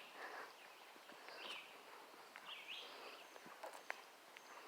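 Faint bird calls: short chirps repeated about once a second in quiet open air, with a few faint clicks.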